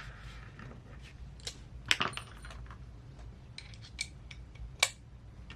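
Small screws and parts clicking and clinking as they are handled and set down on a workbench, with sharper clinks about two seconds in and near the end.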